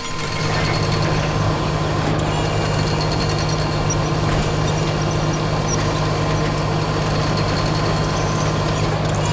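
Heavy construction vehicle engine idling steadily, with a constant low hum.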